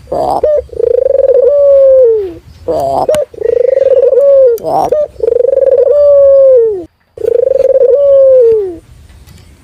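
Puter dove (local collared dove) cooing: a short note, then a long rolling coo that drops in pitch at the end, repeated about four times.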